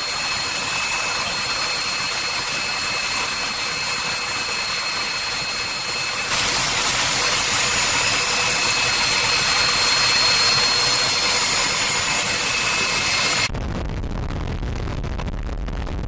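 Steady turbine-engine hiss with thin high whines, growing a little louder about six seconds in. Near the end it cuts off abruptly to a low wind rumble on the microphone.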